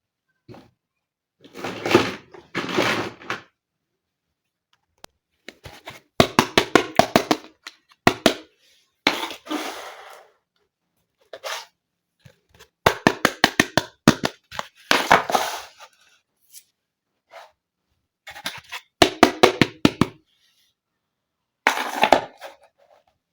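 Small plastic toy kitchen pieces being handled, clicked together and set down. The sound comes in short bursts of quick clicks and rattles, with silent gaps between them.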